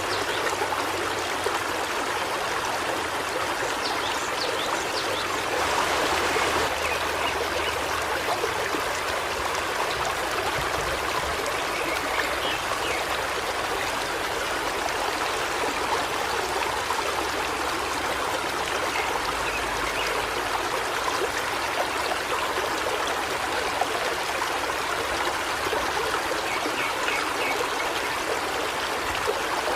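A stream flowing over rocks: steady rushing and trickling water, slightly louder about six seconds in.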